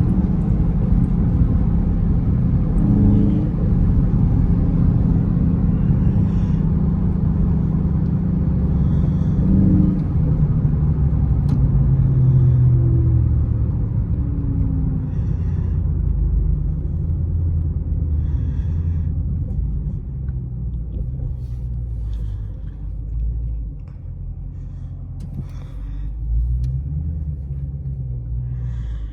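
Dodge Charger Scat Pack's 6.4-litre HEMI V8 running under way: a steady low rumble that eases off and grows quieter over the last third.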